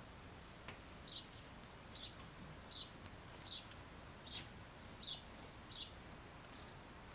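A bird calling repeatedly outdoors: short, high, slightly falling chirps at an even pace, about one every three-quarters of a second.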